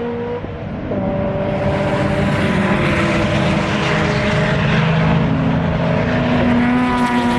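Race car engines running on the road course, growing louder about a second in and holding, with several engine notes that shift slowly in pitch as the cars pass.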